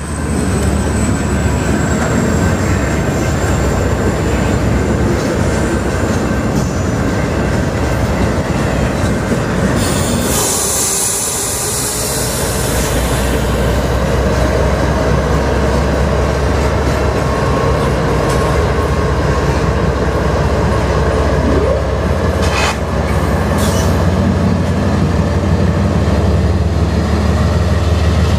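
CSX intermodal freight train passing close, its wheels running loudly over the rails with high-pitched squealing at times, strongest for a few seconds about ten seconds in. A deep steady locomotive engine drone grows from about halfway through.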